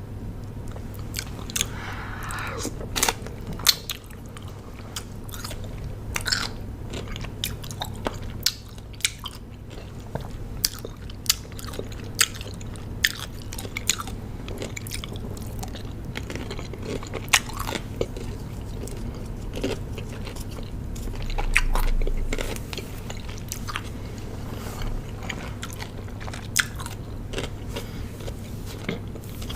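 Close-miked biting and chewing of crunchy raw cucumber: irregular sharp crunches, a few at a time, over a steady low hum.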